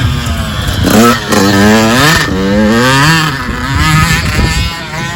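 Dirt bike engine revving up and down several times under changing throttle, its pitch climbing sharply about a second in.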